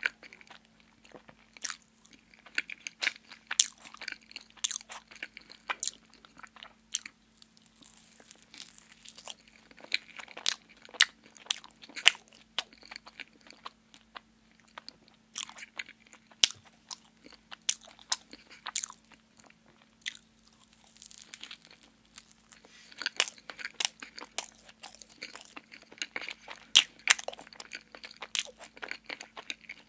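A person chewing and biting into a donut, with irregular sharp mouth clicks several times a second and a faint steady hum beneath.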